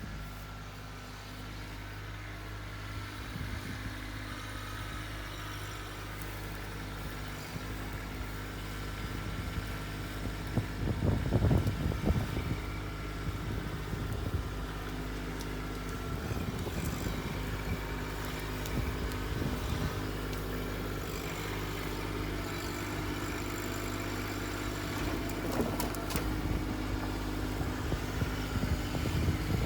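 An engine running steadily, with louder, rougher stretches about ten to twelve seconds in and again near the end.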